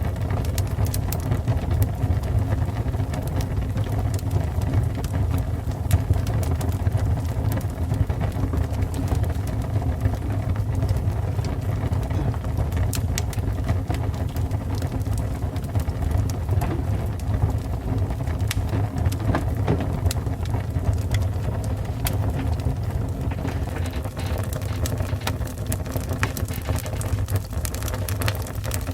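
Fire burning: a steady low rumble with frequent scattered sharp crackles and pops.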